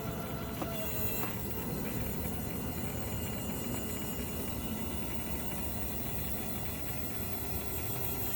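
Landing-gear retract mechanism running steadily with a motor hum as the nose gear with its landing lights swings up.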